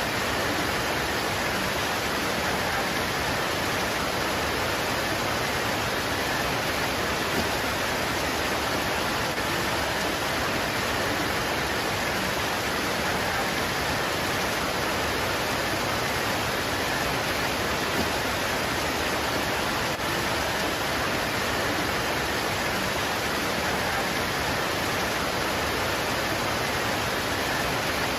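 Steady heavy rain pouring onto leaves, a dense even hiss without pauses.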